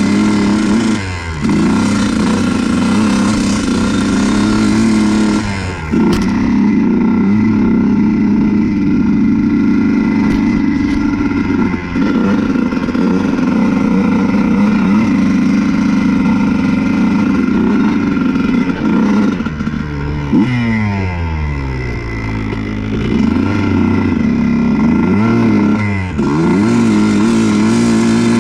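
Honda CR125 single-cylinder two-stroke dirt-bike engine being ridden at high revs. The revs drop briefly a few times, then over the last several seconds they rise and fall repeatedly as the throttle is opened and closed at lower speed.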